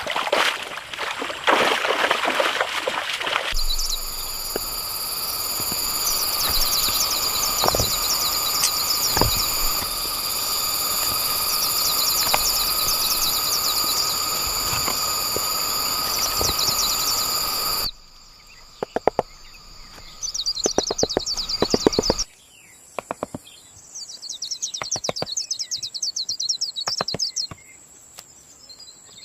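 Rainforest ambience of insects and birds trilling at high pitch, with scattered sharp knocks and runs of tapping from hand work. The background changes abruptly several times, after the first few seconds, about 18 s in and about 22 s in.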